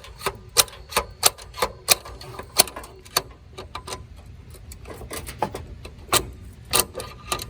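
Ratchet wrench clicking as it works a stubborn bolt: sharp clicks about three a second for the first few seconds, then fewer and more uneven.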